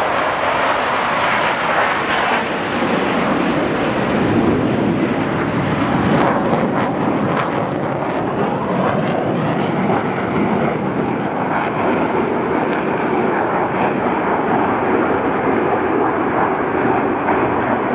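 Loud, steady roar of an aircraft flying over.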